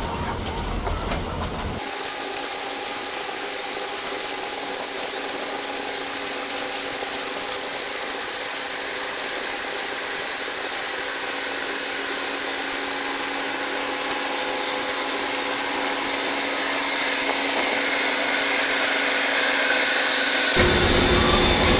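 Machinery running steadily, a constant hum with a high squeal over a hiss.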